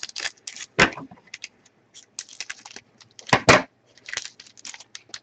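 Trading cards and foil pack wrappers being handled on a table: a quick run of clicks, flicks and crinkles, with the sharpest snaps a little under a second in and about three and a half seconds in.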